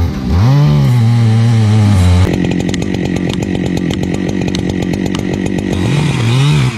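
Chainsaw running at high revs, its engine note rising and falling; about two seconds in the sound changes suddenly to a rapid, even rattle, and near the end the rising and falling engine note returns.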